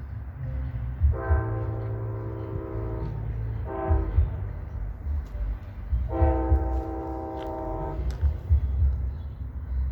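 Amtrak GE Genesis P42DC locomotive's multi-chime horn sounding a long blast, a short one, then another long one, over the low rumble of the passing train.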